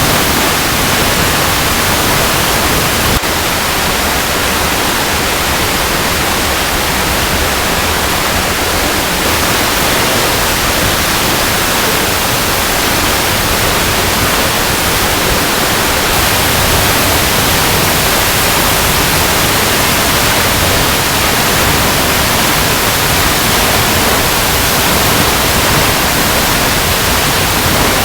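Waterfall cascading over rocks: a steady, unbroken rushing of water spread evenly from deep to very high pitches, with a brief click about three seconds in.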